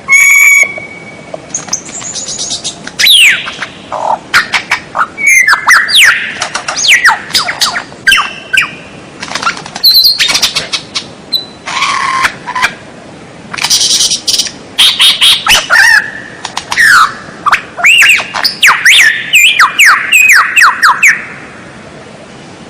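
White-rumped shama (murai batu) singing a long, fast, varied song of whistled glides, sweeping notes, short chips and harsher squawk-like notes. It stops about a second before the end.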